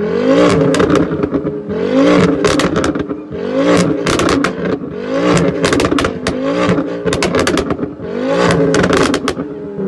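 Car engine revved repeatedly in short blips, about every one and a half seconds. Each rev rises and falls in pitch, with a quick cluster of sharp cracks from the exhaust at the top of each rev.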